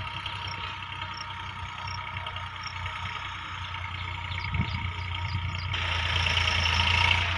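Tractor diesel engine running steadily at idle. It gets louder about six seconds in.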